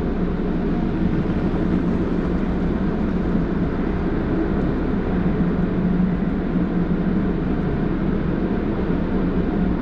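Automatic tunnel car wash machinery running, a steady noise with a constant low hum.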